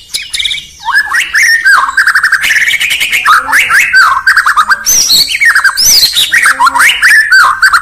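White-rumped shama (murai batu) singing a fast, unbroken run of varied whistles, sweeps and chattering trills, starting about a second in.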